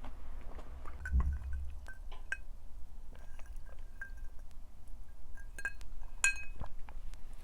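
Tableware clinking lightly: about half a dozen short taps with a brief ringing tone, as glass or dishes knock together, and a soft thump about a second in.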